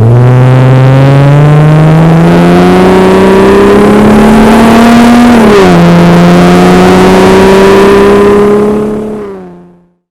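Jeep Wrangler JL 3.6L V6 with a Magnaflow Rock Crawler cat-back exhaust accelerating, the engine note climbing steadily. About halfway through it drops at an upshift, then holds a steady drone before fading out near the end.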